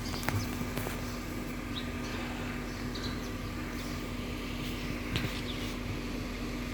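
2012 Honda City's petrol/CNG engine idling steadily with an even hum.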